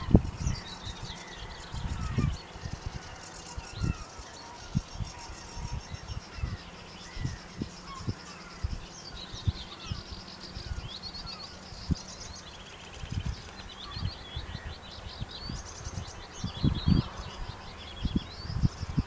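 Small songbirds singing and chirping, with many quick trills and twittering notes throughout. Irregular low thumps and rumbles come and go under the birdsong and are the loudest sounds.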